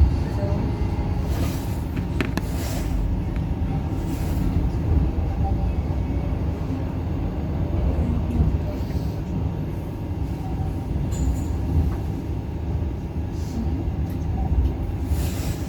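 Electric tram running on street track, a steady low rumble of wheels and running gear with a few brief knocks and rattles along the way.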